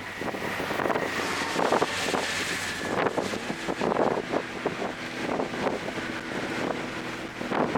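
2024 Toyota GR Corolla's turbocharged 1.6-litre three-cylinder engine, fitted with an aftermarket intake, running at speed on a race track, heard with heavy wind noise on the microphone.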